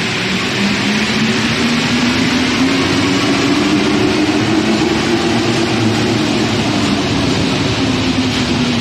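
Rubber-tyred Paris Métro line 1 train running close by: a steady, loud rush of running noise with a low motor tone that rises over the first few seconds and then holds.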